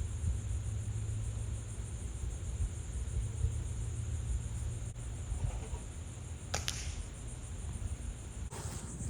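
Steady low rumble, with a faint click about five seconds in and a sharp crack about six and a half seconds in: a shot from an FX PCP air rifle.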